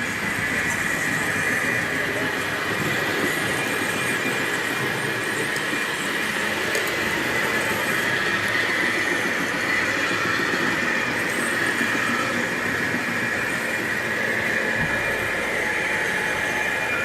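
HO-scale model railroad layout in operation: small electric motors of the running models give a steady high whine over continuous rolling noise.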